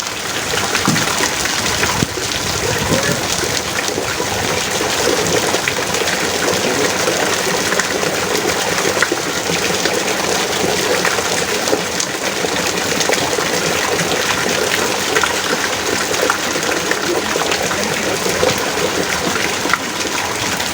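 Heavy rain falling steadily, a dense, even hiss with many small drop impacts.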